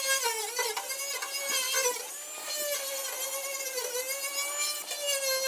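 A small high-speed power tool running with a steady whine, its pitch dipping briefly several times as it is pressed against the work, in rust removal on a rusted exhaust hood.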